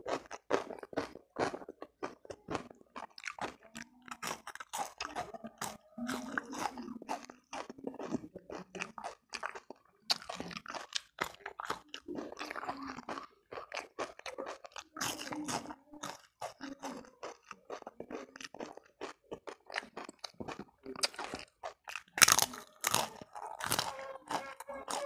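Close-miked chewing and crunching of food eaten by hand: crispy fried fish, raw green chili and cucumber, with many sharp crackly crunches and a loud crunch near the end.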